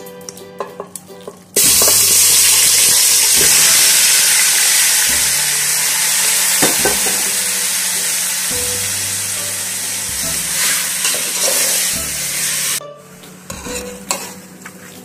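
Marinated chicken hitting hot oil in a pot and sizzling loudly from about a second and a half in, slowly easing off, with occasional knocks. The sizzle cuts off abruptly near the end, leaving a few light clinks.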